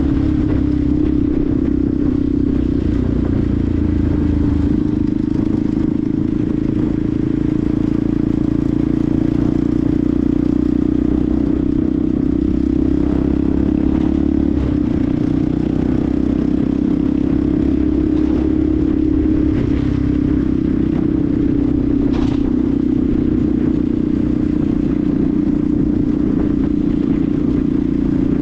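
Benelli TNT 125's single-cylinder four-stroke engine running at a steady cruise, heard from on the bike, its note holding nearly constant pitch with small rises and dips.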